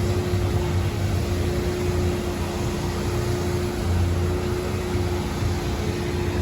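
Steady mechanical hum with a constant mid-pitched tone over a low rumble and an even rushing hiss, like a running motor or blower.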